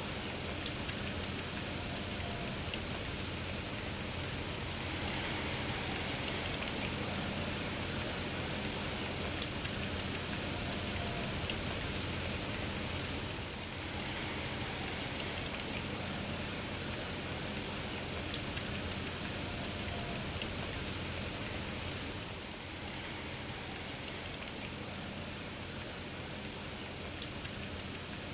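Steady rain, a soft, even hiss of falling drops. Four sharp, loud single drip ticks stand out, about nine seconds apart.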